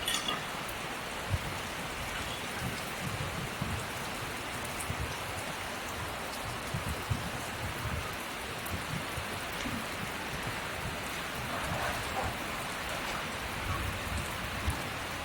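Steady rain-like hiss with irregular low rumbles underneath.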